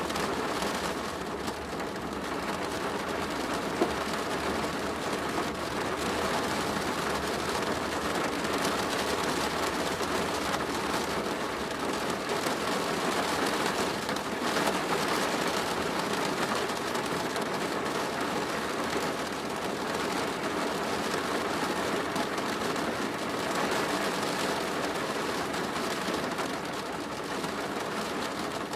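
Steady rain drumming on a plastic roof, a dense even patter with one sharper drop tick about four seconds in.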